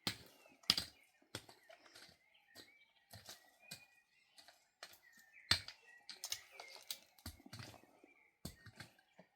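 Irregular sharp clicks and knocks, one or two a second, the loudest about halfway through, with faint high chirps behind them.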